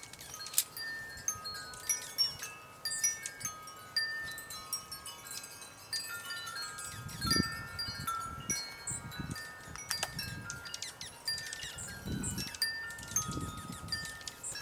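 Wind chimes ringing, many tones of different pitch struck over and over and left to ring, with small birds chirping over them and a few brief low rumbles.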